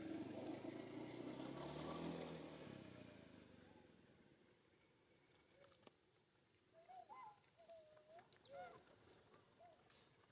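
A motor vehicle engine passing and fading away over the first few seconds. Then a series of faint, short squeaky calls that rise and fall, from a baby monkey.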